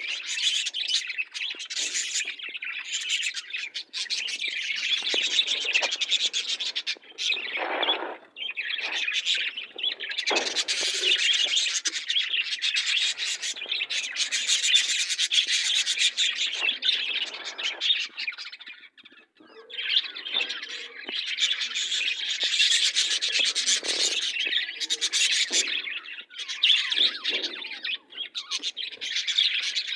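Pet budgerigars and lovebirds chirping and chattering together in a dense, continuous stream of high twittering calls, with a brief lull a little past the middle.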